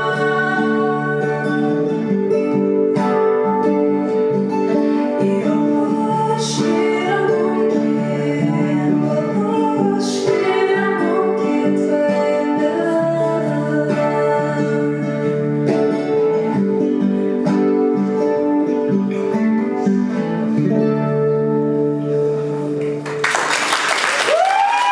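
Live acoustic guitar with singing, the song ending about 23 seconds in. Audience applause then breaks out.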